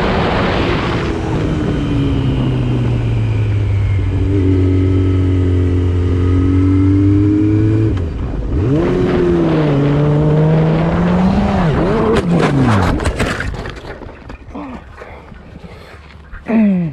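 Motor vehicle engine, most likely a motorcycle, running hard at high revs. Its pitch holds steady, then dips and swells with the throttle about two-thirds of the way through. A few sharp clicks follow, then the engine sound falls away.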